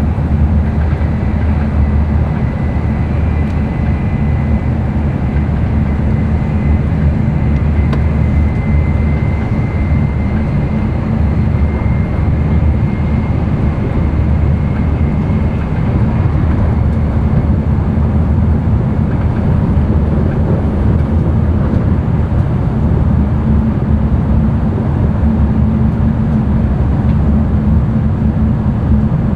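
N700-series Shinkansen running at high speed, heard inside the passenger cabin: a steady low rumble of wheels and rushing air, with a faint high whine that comes and goes in the first half.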